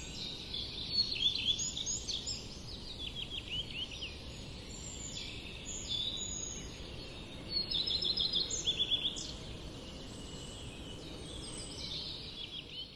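Small songbirds chirping and singing, with quick runs of high falling notes, loudest around three seconds in and again around eight to nine seconds, over a steady low background rumble.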